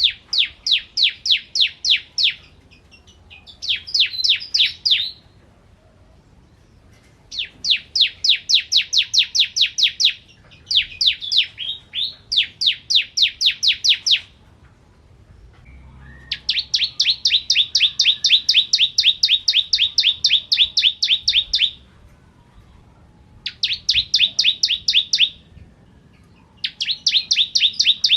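Bar-winged prinia (ciblek) singing: runs of rapid, sharp chirps, about seven or eight a second, in bursts of two to five seconds with short pauses between.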